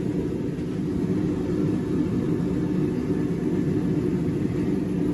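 Steady low rumble with no distinct strikes or changes in pitch.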